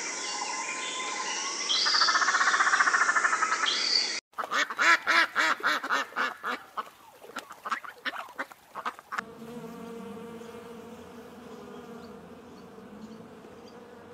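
Peacock calling a few times, then a mallard quacking in a quick run of short calls, then honeybees buzzing in a steady hum for the last five seconds.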